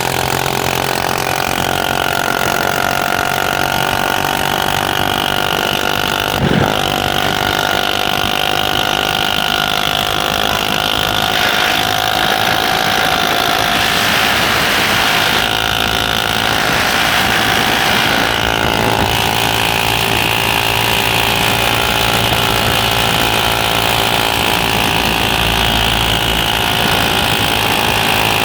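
Motorcycle engine running steadily while being ridden, with a single sharp knock about six and a half seconds in.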